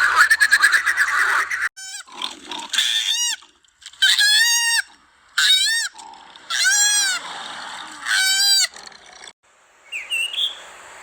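An animal calling in a series of about five high squeals, each rising and then falling in pitch, spaced a second or so apart. A different, noisier animal chorus fills the first second and a half and cuts off abruptly.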